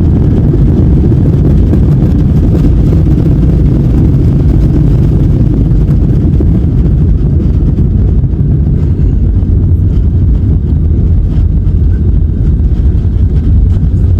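Loud, steady low rumble of engine and airflow noise inside a passenger airliner's cabin.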